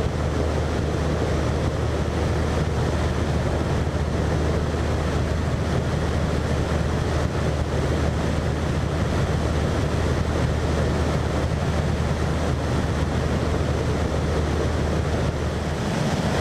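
Cessna 172's piston engine and propeller droning steadily in flight, mixed with rushing airflow noise. The tone shifts slightly near the end.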